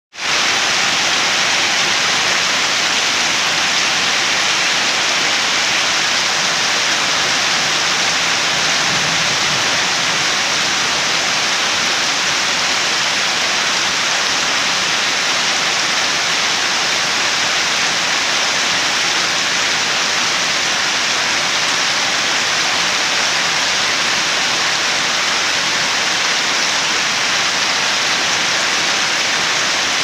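Steady rain falling: an even, unbroken hiss with no thunder or single drops standing out, fading in at the very start.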